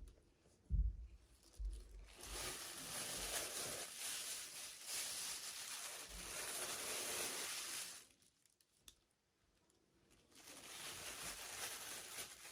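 Packaging being torn and crinkled open by hand, in two long stretches with a short pause between, after a few soft handling knocks at the start.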